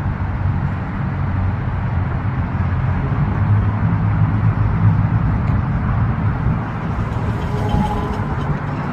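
Road traffic: a motor vehicle's low rumble that grows to its loudest around the middle and then eases off.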